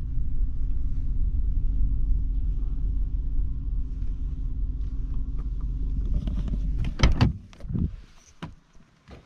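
Low steady rumble of a running vehicle. About seven seconds in it gives way to a few loud knocks and clunks, after which only faint scattered knocks remain.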